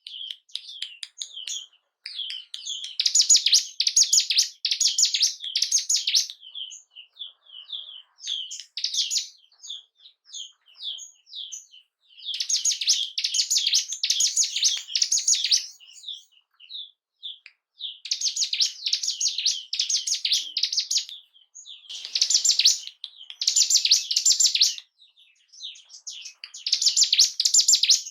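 Ciblek gunung songbird singing: high, rapid trilled phrases of one to four seconds each, with scattered single chirps in the gaps between them.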